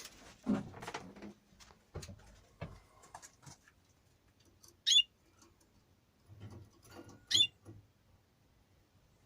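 Two short, sharp chirps from cage finches, about two and a half seconds apart, with light rustling and tapping in between.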